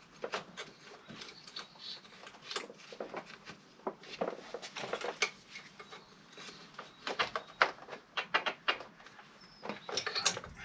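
Irregular clicks, taps and knocks of plastic clips, hoses and hand tools being worked loose from the engine's intake fittings, with clusters of quick clicks about halfway through and near the end.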